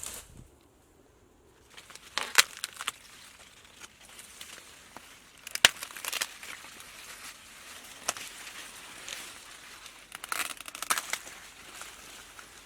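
Bursts of crunching and crackling with sharp snaps, loudest about two, six and eleven seconds in.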